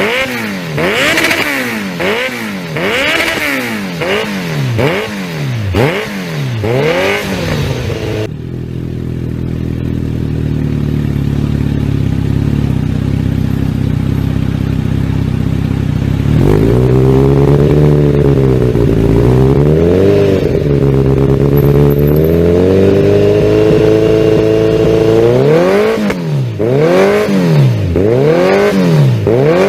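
Kawasaki Z900RS inline-four on an aftermarket exhaust being revved while standing, in quick throttle blips about once a second. About a third of the way in it cuts suddenly to a low, steady running drone. It then returns to slower revs held at higher pitch, and near the end to quick blips again.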